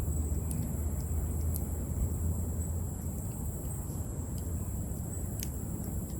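Outdoor ambience: a steady low rumble under a constant high-pitched drone, with scattered sharp clicks.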